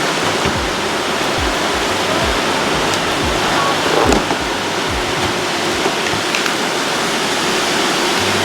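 Many Roomba robot vacuums running at once: a steady, loud rushing noise from their motors and brushes, with low knocks now and then.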